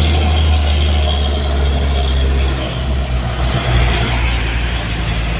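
Heavy truck engine running with a steady low rumble that eases a little about halfway through.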